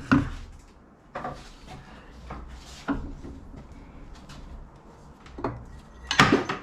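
A machined metal riser block being handled and flipped over on a work surface: several separate knocks and clunks with rubbing between them, the loudest cluster near the end.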